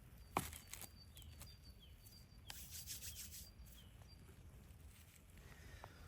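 Faint birdsong of short, high, falling chirps repeated throughout, with a sharp click about half a second in and a brief rustle around the middle.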